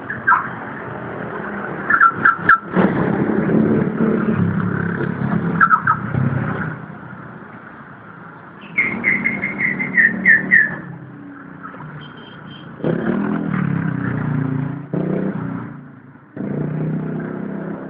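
Motor-vehicle engines running in street traffic, loudness jumping up and down in stretches, with short clusters of high, quickly falling chirps a few times.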